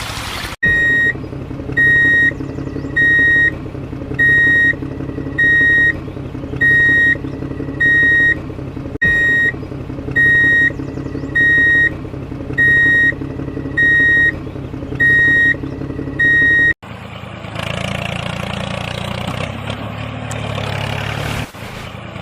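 Electronic reversing beeps sounding about once a second over the steady hum of a small motor, from a DIY mini tractor. The beeps stop abruptly near the end, and a rougher, noisier mechanical run follows.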